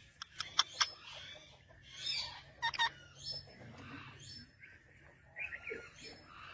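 Parrots calling: a few quick clicks in the first second, then short squawks and chirps scattered irregularly.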